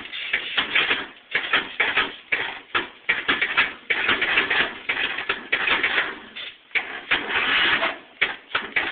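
2002 Scotts lawn tractor's engine being cranked by its electric starter on a cold start, turning over in uneven pulses without catching.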